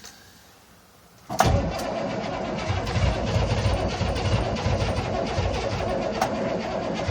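The 6.2-litre diesel V8 of an M1009 CUCV truck is cranked by its starter, kicking in about a second in, and turns over with a low, uneven pulsing, struggling to catch. This is a cold start at about 3 °F with no block heater, after the glow plugs have been cycled.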